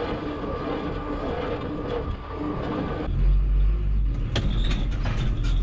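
Tractor diesel engine running. About three seconds in the sound changes abruptly to a deeper, heavier rumble, with a few sharp metallic knocks near the end.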